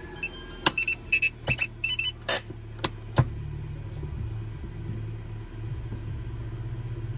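Honda City GM6's engine idling with a steady low hum, heard from inside the cabin. During the first three seconds or so a quick run of about ten sharp clicks and knocks sounds over it.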